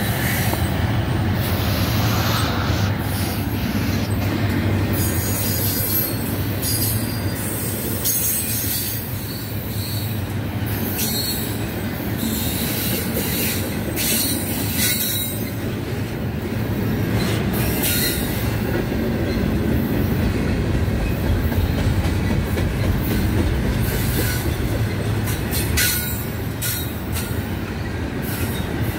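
Double-stack intermodal freight cars rolling past: a steady rumble of steel wheels on rail, with brief high-pitched scraping from the wheels now and then.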